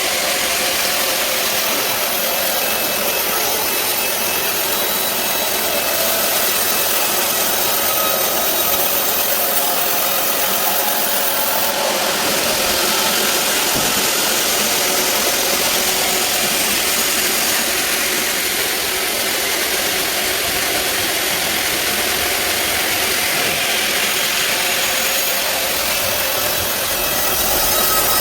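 Sawmill band saw running steadily with its motor's drone and a dense hiss of blade noise, growing a little louder near the end.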